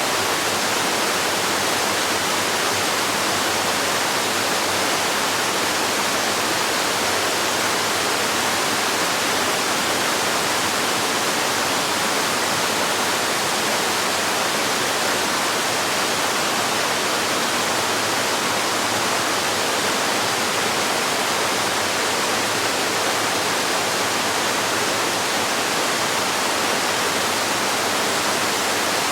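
Waterfall splashing and rushing in a steady, unbroken roar of falling water, with no change in level.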